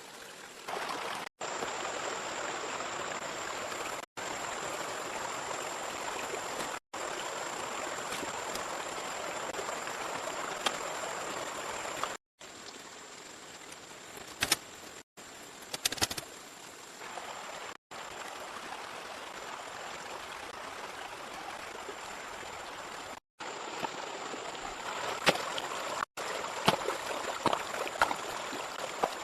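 Steady rushing water noise that breaks off abruptly every few seconds and resumes, with scattered sharp clicks and knocks, most of them near the end.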